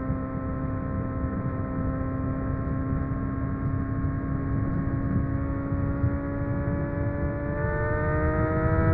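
Honda CBR600RR inline-four with a MIVV aftermarket exhaust pulling at high revs while riding, its pitch climbing slowly and then stepping up higher about three-quarters of the way through. Wind rumble on the helmet-mounted microphone underneath.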